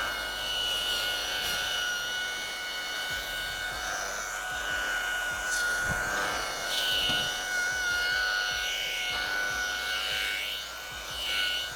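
Electric polisher with a wool pad buffing carnauba wax off a fiberglass boat hull: a steady motor whine with the pad rubbing on the surface, the pitch wavering a little as the load changes.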